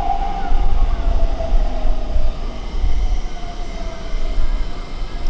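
A train running past on the rails: a heavy rumble with a high whine that slowly falls in pitch.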